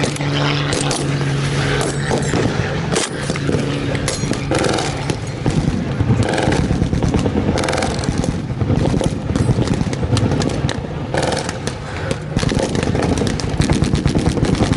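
Re-enactment battle noise: scattered pops of blank gunfire over a steady rough background noise. A propeller engine's drone fades out in the first two seconds.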